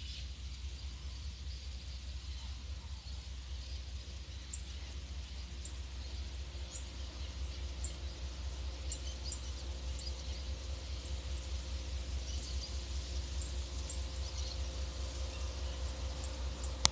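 Outdoor background ambience: a steady low rumble with faint, short, high-pitched chirps scattered irregularly throughout.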